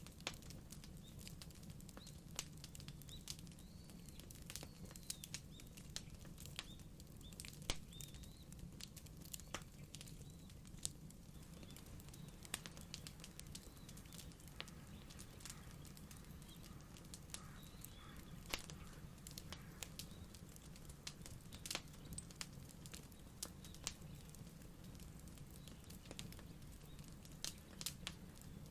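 Wood fire crackling: irregular sharp pops and snaps, a few of them louder, over a low steady rumble.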